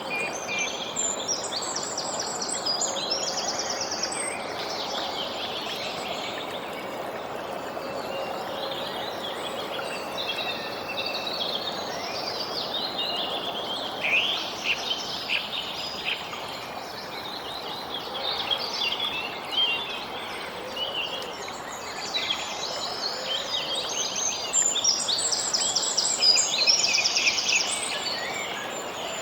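Several birds chirping and singing over a steady background rush, with fast high trills about a second in and again near the end.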